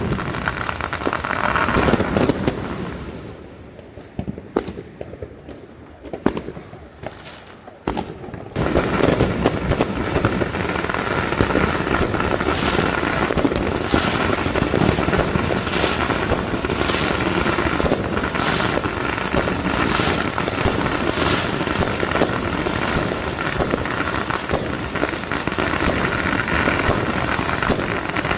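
Fireworks going off in a dense crackle of rapid pops and bangs. About three seconds in it thins to a few scattered cracks, then at about eight and a half seconds a loud, continuous crackle of many quick pops starts and keeps going.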